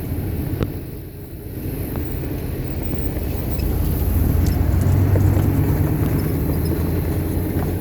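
Low engine rumble with a steady hum that grows louder about four seconds in, then eases slightly.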